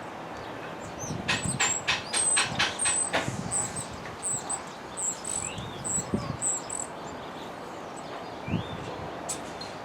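A small bird chirping with a string of short, high notes and a few rising chirps. A quick run of about six sharp clicks sounds between one and three seconds in.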